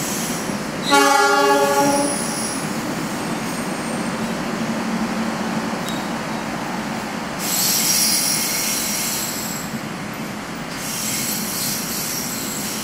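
A train horn sounds once for about a second, near the start, over the steady rumble of trains in the station. Later a high-pitched squeal of train wheels comes in twice as a train rolls in.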